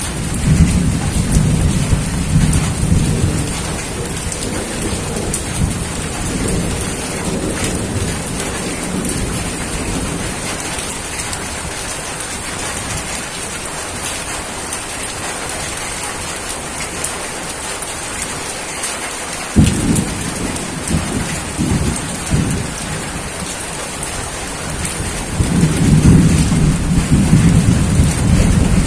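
Steady rain falling through a thunderstorm. Thunder rumbles low in the first few seconds, a sudden sharp clap comes about two-thirds of the way through and rolls on, and the rumbling builds again near the end.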